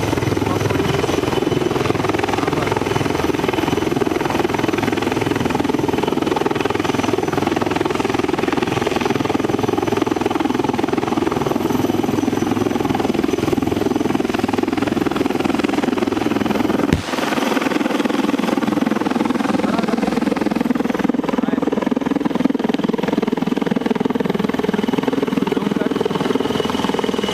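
Helicopter running overhead: a loud, steady drone of engine and rotor. About 17 seconds in there is a sharp click and the deepest rumble drops away.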